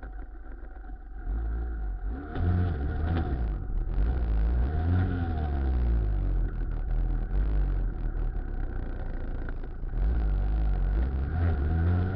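Muravey cargo trike's two-stroke engine under way, quieter at first and then pulling harder about two seconds in, its pitch rising and falling as the throttle opens and closes. It eases off briefly near ten seconds in, then picks up again.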